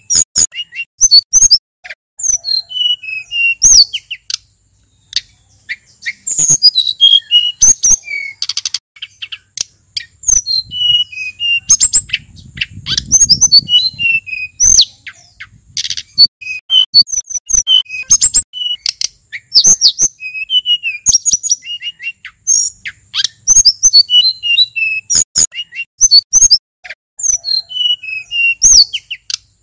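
Male sulingan gunung songbird singing a fast, varied song of high chirps, whistled notes and trills in quick phrases separated by short pauses. A faint low rumble sits under the song around the middle.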